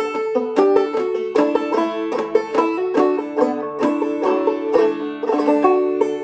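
Deering Vega Senator open-back five-string banjo played clawhammer style in double D tuning: a quick, even run of plucked notes, with a last chord struck near the end and left ringing.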